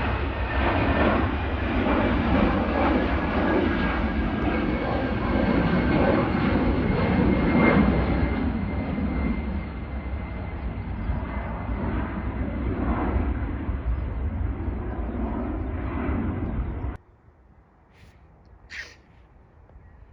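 Airliner engines running loud at the runway: a dense rushing noise with a steady high whine over it. It cuts off abruptly about three seconds before the end, leaving a quiet background with a short bird chirp.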